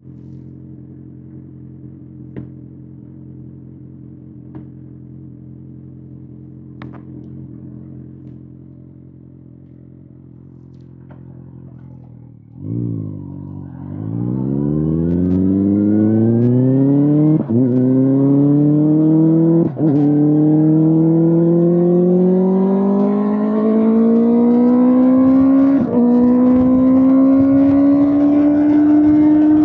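Kawasaki ZX-6R inline-four engine through an SC-Project SC1-R exhaust: a steady idle for about twelve seconds with a few faint ticks, then the note dips and climbs steadily and smoothly for the rest, broken by three brief dropouts.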